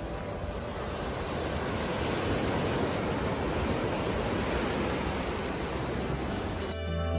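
Ocean surf washing against the rocky shore, a steady rush that swells a little midway through. Near the end it cuts to guitar music.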